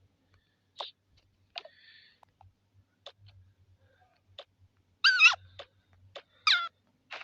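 An animal calling: scattered short chirps and clicks, then two loud cries that waver up and down in pitch, about five and six and a half seconds in.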